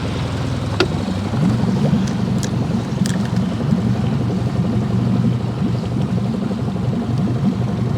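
Boat motor running steadily, a low drone that wavers slightly, with water noise beneath it.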